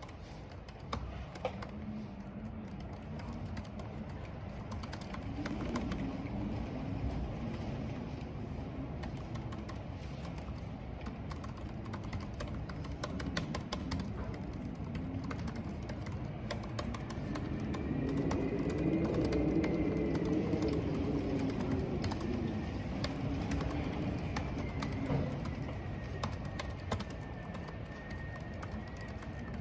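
Computer keyboard typing, scattered key clicks throughout, over wind howling in a corridor with rain behind it. The low, wavering wind howl swells loudest about two-thirds of the way through, and a thin high whistle joins it in the second half.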